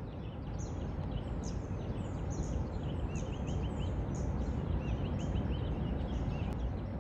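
Small birds chirping repeatedly, many short quick calls overlapping, over a steady low outdoor rumble.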